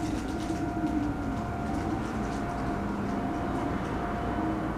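Electric train humming at a station platform: a steady high tone over a lower drone that wavers and shifts in pitch, with a low rumble and scattered light clicks.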